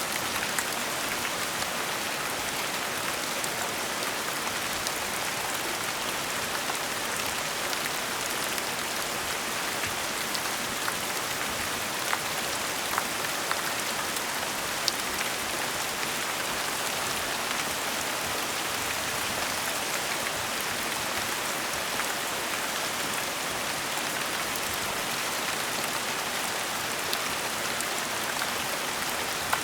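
Steady gentle rain falling, an even hiss with scattered individual drops ticking sharply now and then.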